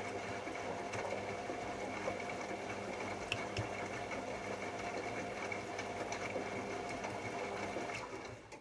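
AEG Electrolux Lavamat L74810 washing machine's motor turning the drum, a steady hum with a high whine, winding down and stopping near the end as the drum pauses between turns.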